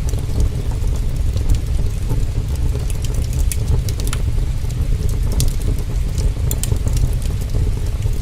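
Heavy rain falling steadily with a deep low rumble, mixed with a crackling wood fire that gives off scattered sharp pops.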